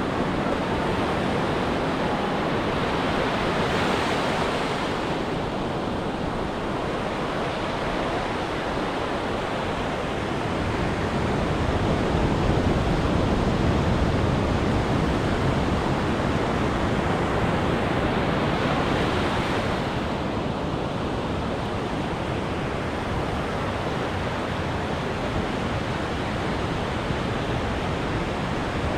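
Ocean surf breaking and washing up a beach: a steady rush, with a wave swelling louder about four seconds in and another around twenty seconds in.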